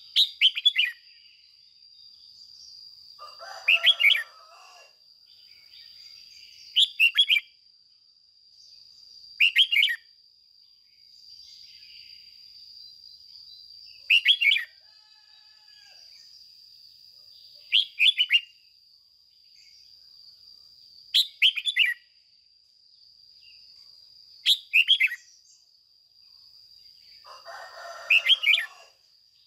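Red-whiskered bulbul singing short, loud phrases of quick falling whistled notes, repeated about every three seconds. A faint, steady high-pitched tone runs underneath.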